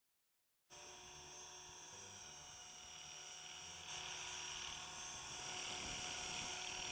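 Electric radio-controlled helicopter running: a whine of several steady high tones from the motor and drive gears over rotor noise. It starts abruptly and steps louder about three seconds later.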